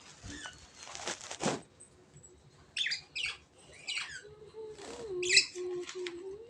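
Pet lovebirds chirping: a few short, sharp calls that sweep downward, after a brief burst of rustling about a second in.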